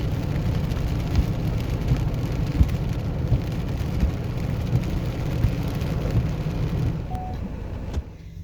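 Steady rain pattering, with many small drop ticks; it cuts off abruptly near the end.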